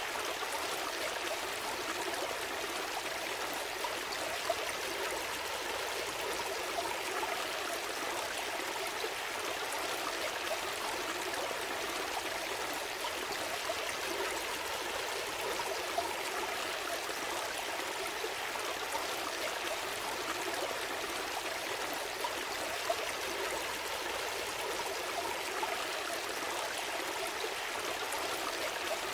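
A gentle stream flowing steadily, water trickling and gurgling over stones, with small splashes here and there.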